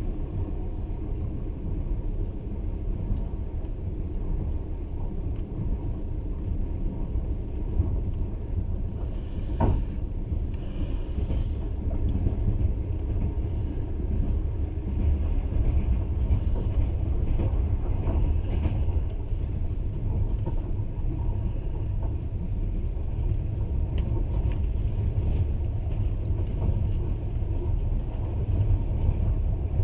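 Steady low rumble of a passenger train running along the track, heard from inside the carriage, with a single sharp knock about ten seconds in.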